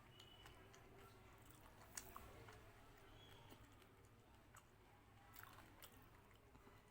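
Faint chewing with scattered wet mouth clicks from a person eating, over near-silent room tone; the sharpest click comes about two seconds in.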